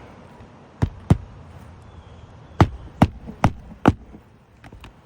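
Hammer driving roofing nails into a new asphalt shingle with sharp single strikes: two about a second in, then four about half a second apart in the middle, and two faint taps near the end.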